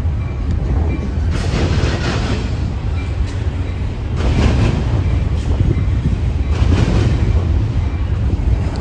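A train passing close by: a loud steady low rumble with irregular louder clatters of wheels over the rail joints.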